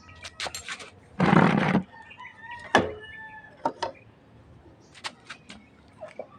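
Scattered small metallic clicks and knocks of hand tools and parts being handled, broken about a second in by a short, loud rushing noise lasting about half a second.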